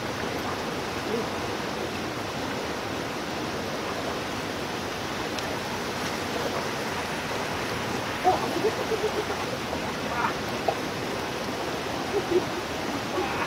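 Steady hiss of rain and running water. Faint voices come in briefly about eight seconds in and again near the end.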